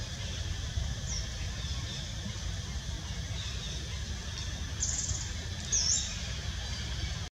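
A few short, high bird chirps over a steady low rumble, the clearest two about five and six seconds in, one of them dipping and rising in pitch.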